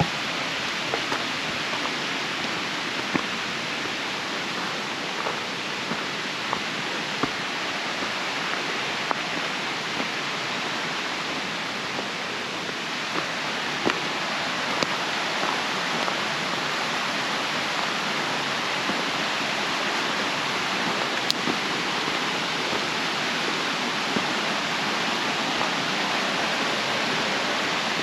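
Steady rushing noise, like flowing water, with scattered faint small clicks.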